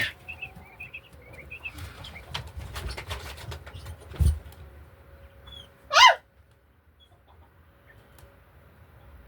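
Chickens: short chirping calls and scattered scratching clicks for the first few seconds, a dull thud about four seconds in, and one loud squawk about six seconds in. After that only a faint steady hum.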